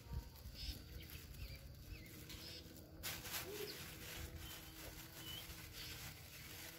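Faint bird calls, a few short chirps now and then, over low rumble and handling noise.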